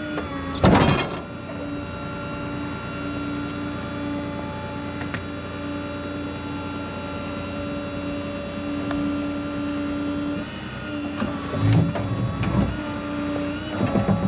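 Tow truck's hydraulics whining steadily at one pitch as the truck unloads a car. There is a loud clank about a second in and a few knocks near the end.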